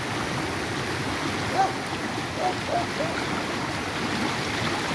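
Steady rush of river water pouring over a waterfall, an even hiss throughout, with a few brief arching calls heard over it near the middle.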